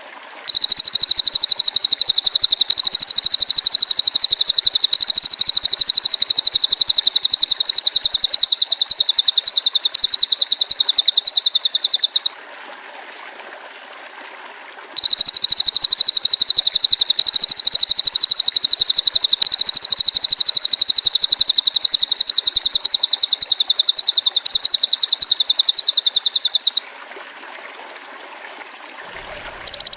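Cililin bird song played back for songbird training: a high, very rapid buzzing trill, in two long stretches of about twelve seconds each with a short pause between. Just before the end a different, narrower high-pitched buzz begins.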